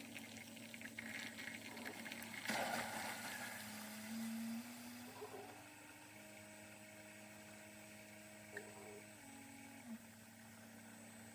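Single-serve coffee maker running: a low pump hum that steps up and down in pitch a few times, with a short burst of hissing, spluttering water about two and a half seconds in.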